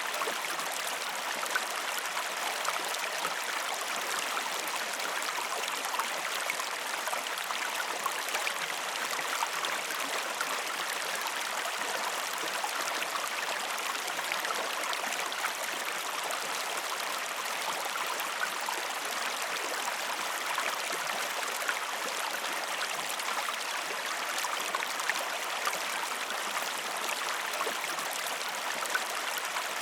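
River or stream water flowing steadily, a continuous rushing with fine babbling and splashing.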